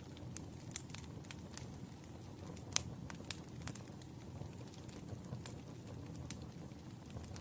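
Wood fire crackling: irregular sharp pops and snaps over a low steady rumble, with one louder pop about three seconds in.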